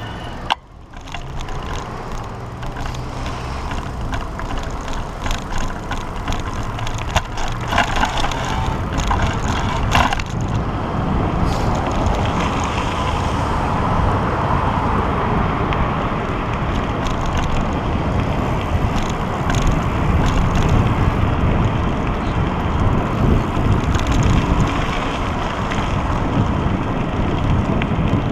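Wind rumbling on the microphone and the rolling noise of a pedal bike being ridden. A run of sharp clicks and rattles comes in the first ten seconds or so.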